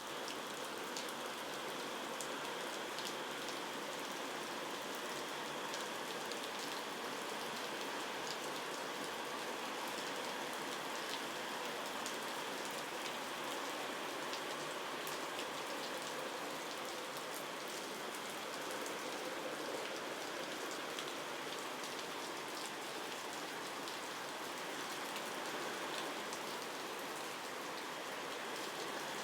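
Steady rain falling, a constant even hiss with many small drops pattering.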